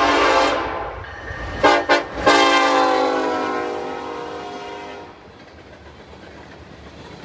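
Locomotive air horn sounding a long blast, two short blasts, then a long blast that fades away about halfway through, followed by the quieter rumble of the passing train.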